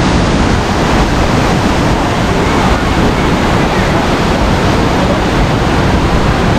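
Waterfall in heavy flow, swollen by rain on the hills above: a loud, steady rush of falling water.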